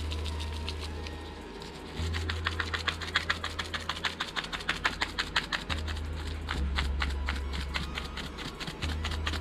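Seasoning rub being shaken from a plastic shaker bottle: a rapid, even rattle of ticks several times a second, starting about two seconds in. A low hum cuts in and out underneath.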